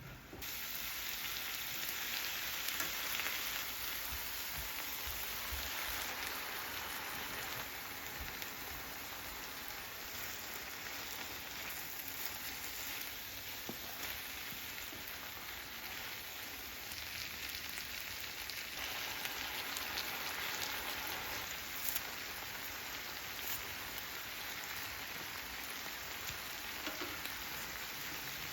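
Food sizzling in hot oil in a frying pan: a steady hiss with scattered small crackles, starting suddenly just after the beginning.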